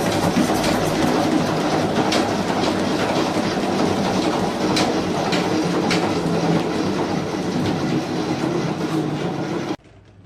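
A steady mechanical rumble with clattering and scattered sharp clicks, cutting off suddenly near the end.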